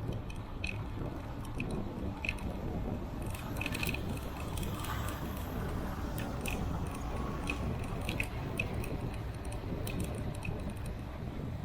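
Riding sounds from a moving bicycle: wind and road rumble on the microphone, with scattered light clicks and rattles at irregular times.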